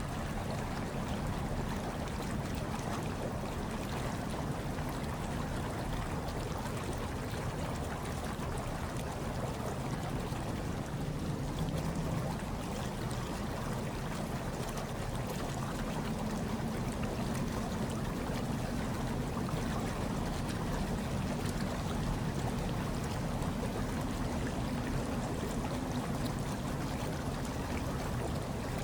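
Hot tub water churning and bubbling steadily, a constant, even rush with a deep low end.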